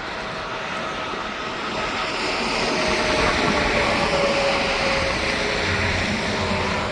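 Heavy truck passing on an interstate highway: tyre and engine noise builds to a peak about three seconds in, with a tone that slowly falls in pitch as it goes by.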